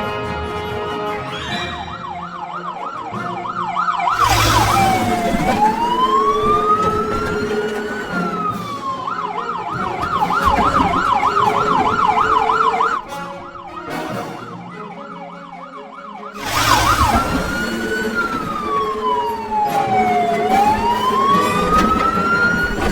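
Fire truck siren switching between a fast warbling yelp and a slow rising-and-falling wail, over background music. It drops away for a few seconds about halfway through, then comes back as the wail.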